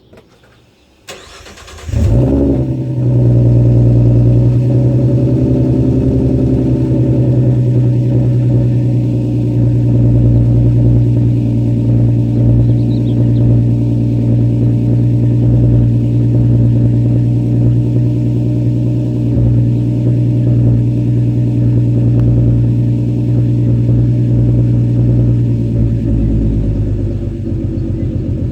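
Ford Mustang 3.7-litre V6 with a custom Magnaflow exhaust cold-starting: a couple of clicks, then the engine catches about two seconds in and settles into a steady, loud fast idle, easing slightly quieter near the end.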